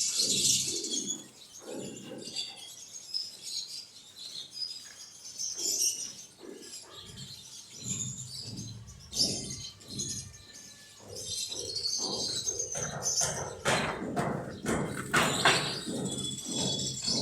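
Quail chirping repeatedly in short, high calls, with knocks and rustling in the second half.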